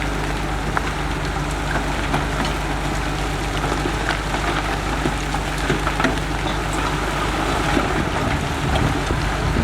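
Diesel engine of a heavy construction machine running steadily, with a hiss and scattered ticks over its low drone.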